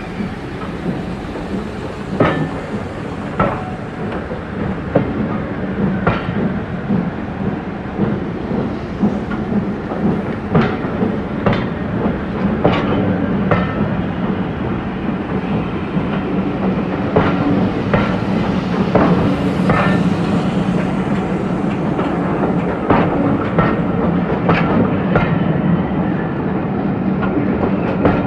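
Railway train rolling slowly past: a steady rumble, with wheels clicking over rail joints and pointwork at uneven intervals.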